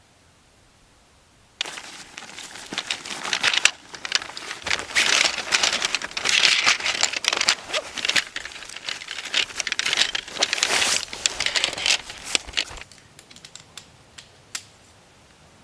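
Crinkling and rustling of material being handled. It starts suddenly about one and a half seconds in, goes on with many sharp crackles, and stops about thirteen seconds in. A few light ticks follow.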